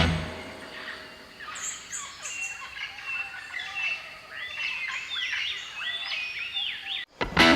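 Several birds calling over one another: quick high chirps and repeated short whistled notes that bend down in pitch. Music fades out at the start and new music begins near the end.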